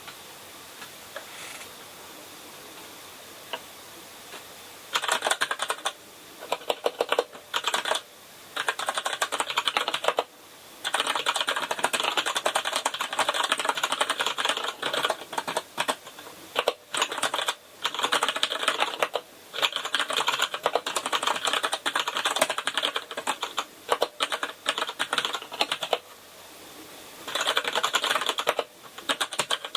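Typing on a Kinesis Advantage contoured keyboard with Cherry MX Brown switches: fast runs of keystroke clicks in bursts, with short pauses between them. The typing starts about five seconds in.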